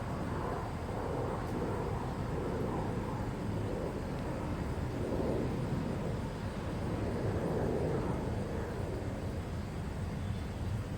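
Steady low rumble of distant engine noise outdoors, swelling a little in the middle and easing off toward the end.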